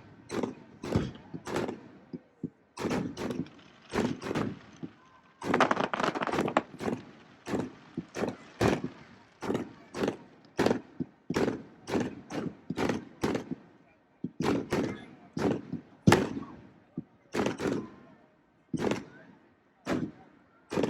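Fireworks display: a steady string of sharp bangs, one or two a second, each with a short echoing tail, thickening into a dense volley about five to seven seconds in.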